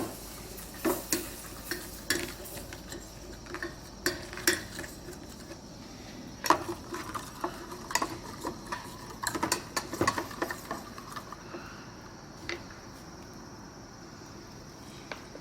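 A utensil stirring chicken stock into a flour-and-oil gravy base in a pan, with irregular clinks and scrapes against the pan that thin out after about eleven seconds.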